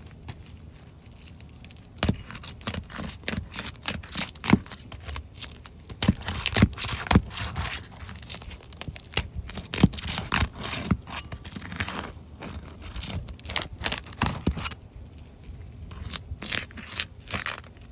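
A roof snake shingle tool scraping under sealed asphalt 3-tab shingles and prying them loose, with irregular sharp cracks, scrapes and tearing as the sealant strips break. It starts about two seconds in and goes on in quick bursts of strokes.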